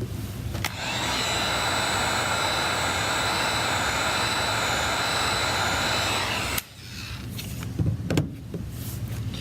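Heat gun running: a steady rush of air with a high whine from its fan motor, starting just under a second in and cutting off sharply after about six seconds. A few light knocks follow near the end.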